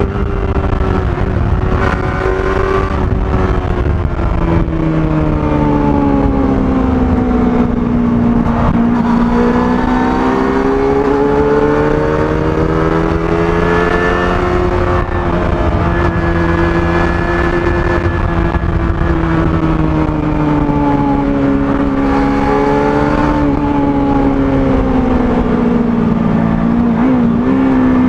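Kawasaki ZX-25R's 249 cc inline-four running through its stock exhaust while riding. The engine pitch falls, rises and falls again smoothly as the throttle is eased and opened, over a steady wind rumble on the microphone.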